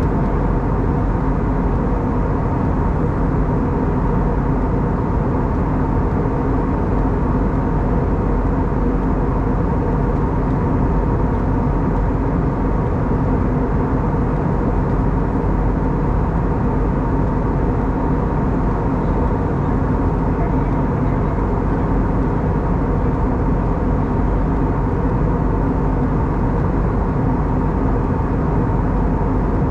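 Steady cabin noise of an Airbus A320neo (CFM LEAP-1A engines) in flight: a constant rush of air with a few steady tones from the engines and air systems underneath.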